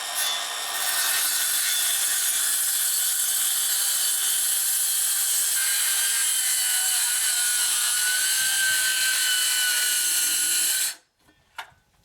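Handheld power tool cutting into wood, running steadily at full speed for about eleven seconds, then stopping suddenly near the end.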